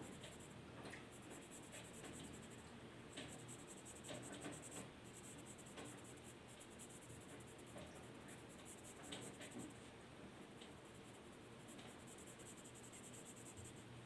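Faint scratching of a drawing tool on paper in short, irregular strokes.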